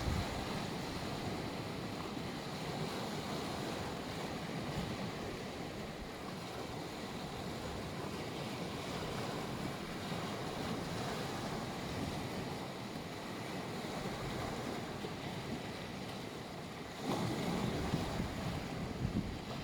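Black Sea waves washing onto a beach, a steady wash of surf. About seventeen seconds in it grows louder, with a low rumble that sounds like wind on the microphone.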